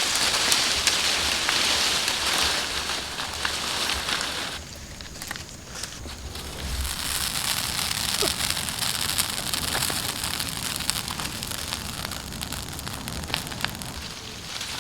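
Large brush bonfire burning, a dense hiss with many sharp crackles and pops throughout.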